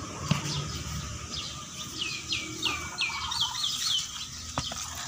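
A bird singing: a run of about eight whistled notes, each sliding down in pitch, starting about a second and a half in and coming faster toward the end. There is a single sharp click near the end.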